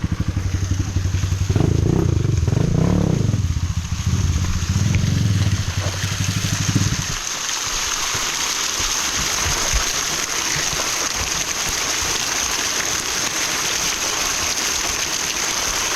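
Dirt-bike motorcycle engine running and revved, then cutting out suddenly about seven seconds in, leaving the steady rush of the waterfall.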